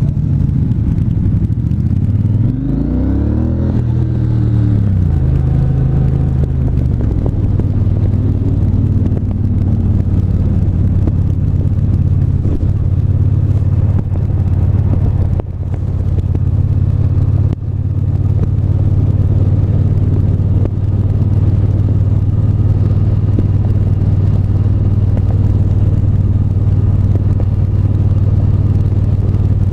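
Onboard sound of a Triumph 1200 cc parallel-twin motorcycle engine under way: the revs climb and drop back a few seconds in, then the engine holds a steady cruising note.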